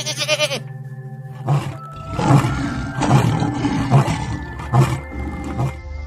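A goat's short bleat at the start, then a series of rough, noisy animal calls about once a second, over steady background music.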